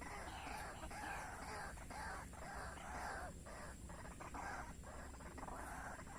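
Calls of white-breasted waterhens (ruak-ruak), repeated in a dense, unbroken chorus.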